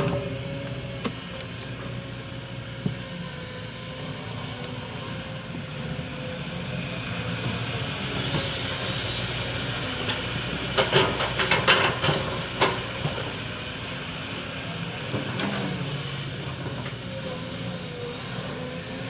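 Kobelco SK200 hydraulic excavator running steadily while loading sand, its diesel engine humming under a steady hydraulic whine. A cluster of knocks and rattles comes about eleven to twelve seconds in.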